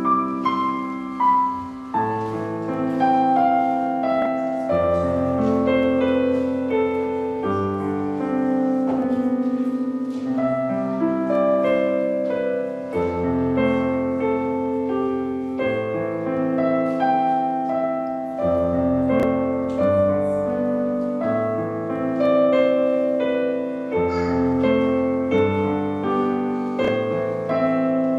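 Piano playing a slow postlude of sustained chords and melody.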